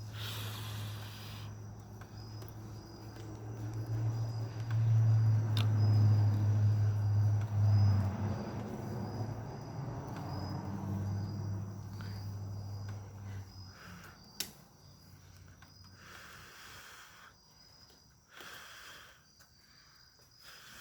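Crickets chirping in an even repeating rhythm, with a loud low hum that swells and then fades away about two-thirds of the way through, and a couple of sharp clicks.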